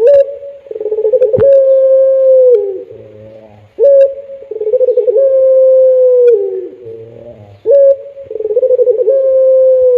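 Puter pelung dove cooing: three long, drawn-out coos about four seconds apart, each opening with a sharp note, held at a steady pitch, then sliding down at the end. A single click sounds a little after the first coo begins.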